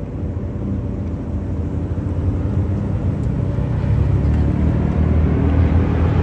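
Car engine running with a deep low rumble that grows steadily louder, like a car drawing closer.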